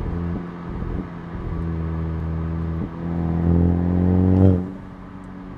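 Exhaust of a 2019 Volkswagen Jetta GLI's turbocharged four-cylinder, fitted with a Neuspeed stainless cat-back, droning steadily under light throttle with a couple of brief dips. About three seconds in it gets louder as the driver leans on the throttle, rising slightly in pitch, then drops off abruptly as he lifts off.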